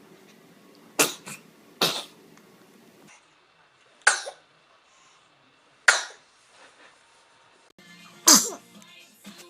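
Babies sneezing: five short, sharp sneezes, the first two about a second apart, the rest spread out a couple of seconds apart.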